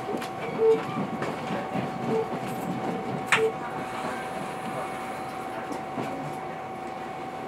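Train running on the rails, heard from inside the passenger car: a steady rumble with a constant whine, a few short squeaks in the first few seconds and a sharp click a little over three seconds in.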